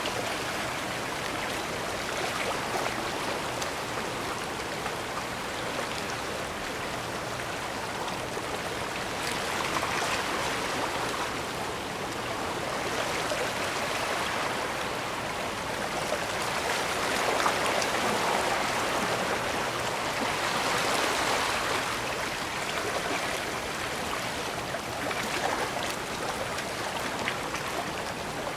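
Small sea waves washing against the shore, a steady rush of water that swells and eases every few seconds.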